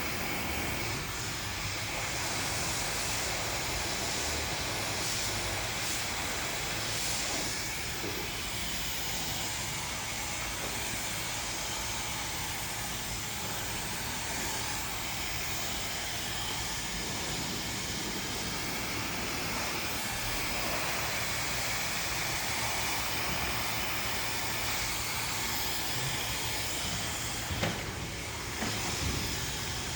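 Handheld hair dryer running steadily, a constant rushing hiss of blown air.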